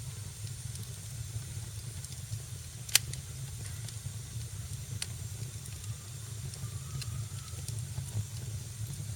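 Fireplace fire crackling over a steady low rumble and hiss of the flames, with scattered small pops and one sharp, loud pop about three seconds in.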